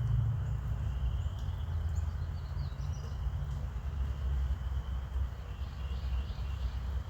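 Outdoor background: a steady low rumble with faint, constant insect trilling and a few brief bird chirps, around the middle and near the end.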